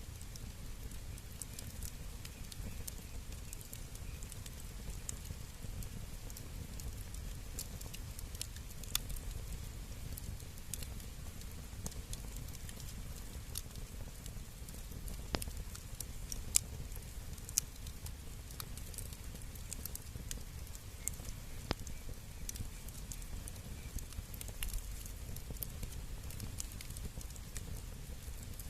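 Wood bonfire crackling, with scattered sharp pops and snaps, a few louder than the rest, over a steady low rumble.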